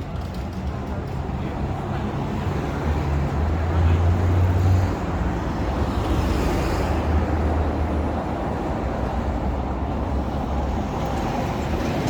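City street traffic: the low hum of a motor vehicle's engine over steady road noise, growing louder to a peak about four seconds in, then easing back to a steady rumble.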